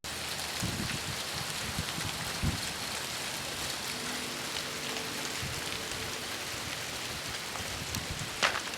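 Steady hiss and fine patter of winter precipitation falling on surfaces, with a sharp tap near the end.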